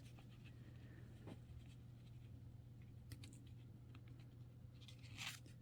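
Faint rustling and soft taps of a sheet of patterned paper being handled, folded and creased by hand, over a low steady hum.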